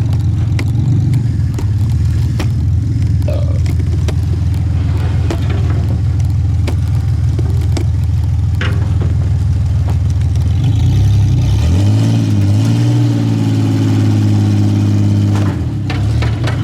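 Pickup truck engine running hard, revving up about eleven seconds in and held at high revs for several seconds before easing off.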